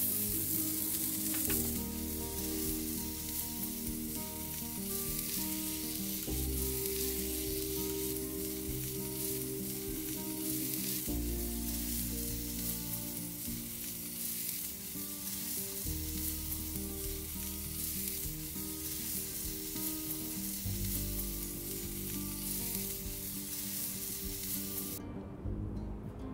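Asparagus, sausages and a round of cheese sizzling in a skillet over a charcoal grill, a steady hiss that stops near the end. Soft background music of sustained chords plays underneath.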